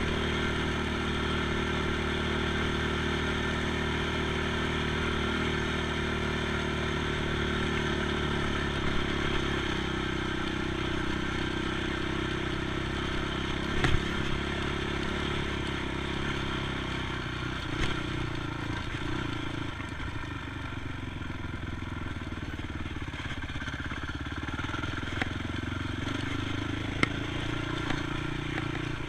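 ATV engine running steadily while being ridden, with a few sharp knocks and rattles, the loudest about 14 seconds in. The engine note drops in the second half and climbs again near the end.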